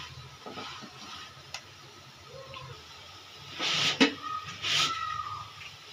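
Jowar paratha sizzling in ghee on a hot iron tawa, with two louder hissing bursts about four and five seconds in and a sharp tap between them.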